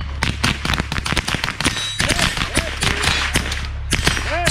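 Rifle fired rapidly at steel targets: a quick string of sharp shots, several a second, with a brief pause a little under two seconds in before the shooting resumes.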